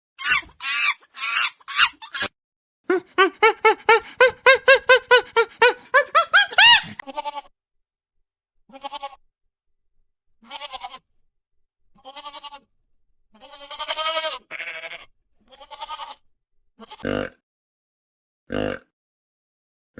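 Goats bleating: first a quick run of short squawking calls, then a long quavering bleat that ends on a rising note, followed by a string of shorter separate bleats.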